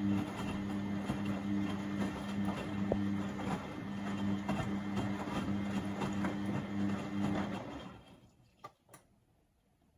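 Beko WMB71642W washing machine tumbling its drum during the 30° wash: a steady motor hum with the sloshing and clatter of the wet load. The drum stops about three-quarters of the way through, the usual pause between tumbles, and two faint clicks follow.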